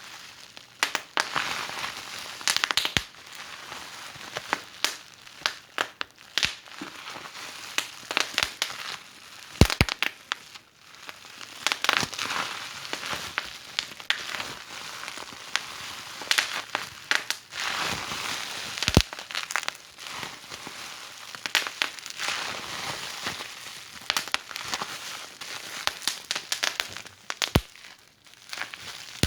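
Wood fire burning in a fireplace, crackling steadily with frequent sharp pops and snaps over a soft hiss; a few louder pops stand out, about ten seconds in and near the middle.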